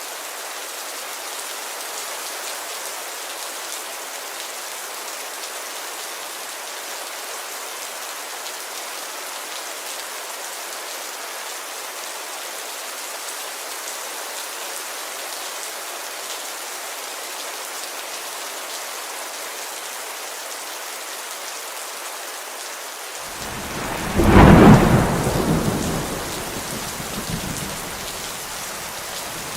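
Steady rain on a window, with one clap of thunder about three quarters of the way through that rumbles away over a few seconds.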